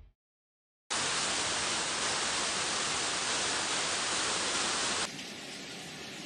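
Steady, even hiss that starts sharply about a second in and drops abruptly to a quieter hiss about five seconds in.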